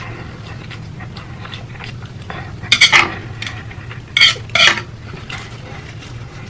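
Eating noodles from a bowl: utensils clattering and stirring against the dish, with a cluster of loud, sharp sounds a little under three seconds in and two more a little after four seconds.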